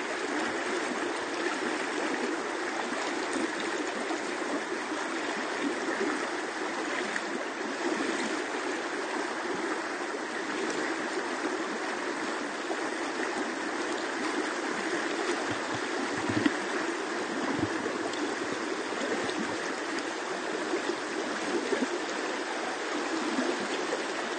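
Steady rushing of a fast mountain river. A single soft knock comes about two-thirds of the way through.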